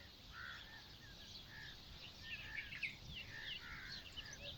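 Several birds chirping and calling: many short notes sliding up and down, getting busier about halfway through, over a low steady background rumble.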